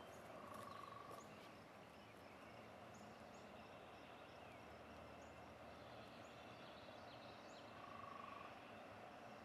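Faint outdoor ambience with small birds chirping here and there, and a short steady high note heard twice, about a second in and again near the end.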